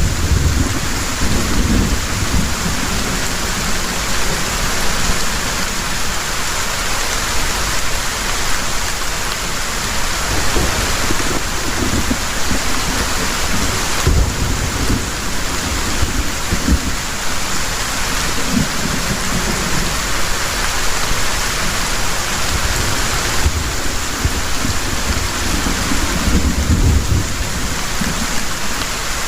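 Heavy rain falling in a dense, steady hiss, with low rolling thunder that swells and fades several times and is strongest near the end.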